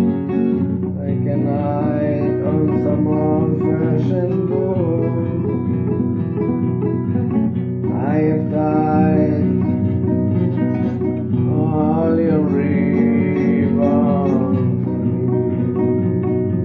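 Acoustic guitar music: plucked and strummed chords with a melody line that bends in pitch above them.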